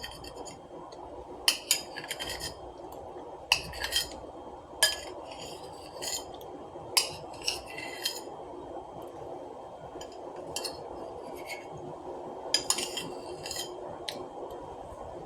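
Spoon clinking and scraping against a dish while ice cream is scooped and eaten. The sharp clicks come in small clusters every couple of seconds, over a steady background hum.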